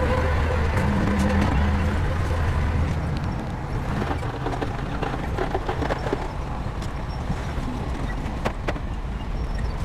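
Shantui bulldozer's diesel engine running with a steady low drone, which drops away about three seconds in to a rougher, quieter rumble with scattered clicks.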